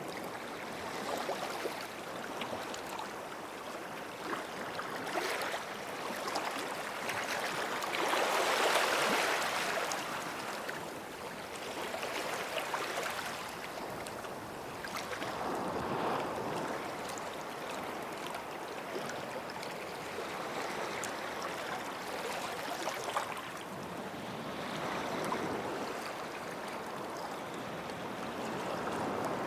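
Small sea waves washing onto the shore, each wash swelling and fading every several seconds. The strongest comes about a third of the way in.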